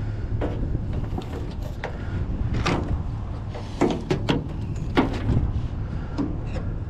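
Scrap being handled: a scatter of sharp knocks and clatters, several close together near the middle, over a steady low rumble.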